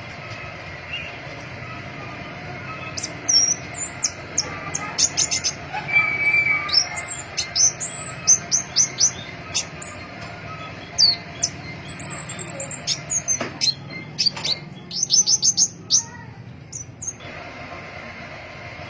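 Pentis pelangi flowerpecker singing: rapid series of very high, thin chirps and quick downward-sweeping notes, coming in bursts from a few seconds in until near the end, over a steady low hiss.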